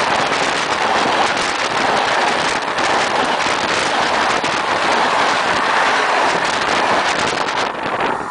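A train passing directly over a microphone lying between the rails: a loud rushing noise full of rapid clacks from the wheels on the rails overhead. It cuts off sharply about seven and a half seconds in as the last car clears.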